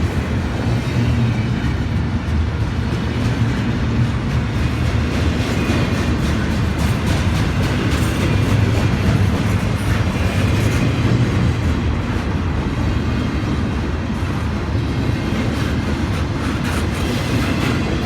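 Freight train rolling steadily past: a loud, continuous rumble of cars and wheels on the rails, with light clicking from wheels crossing rail joints.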